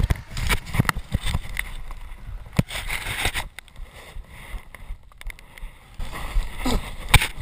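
Mountain bike rattling and knocking over a rough, rocky downhill trail, with tyre rumble and wind on the microphone. It goes quieter for a couple of seconds around the middle.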